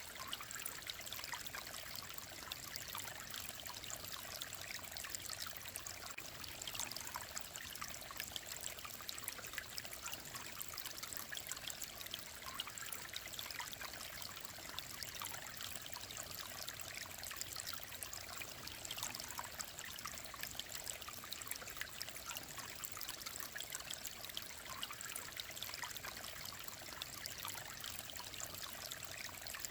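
Clear mountain stream running over rocks: a steady babble of trickling water with many small splashes, mostly bright and hissy rather than deep.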